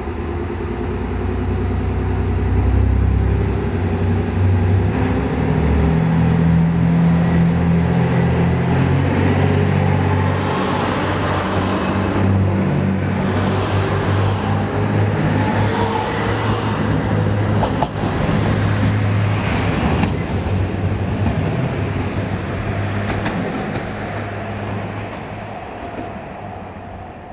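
Diesel express train going past: a low engine drone with wheels rumbling on the rails, building as it comes alongside and fading as it pulls away near the end.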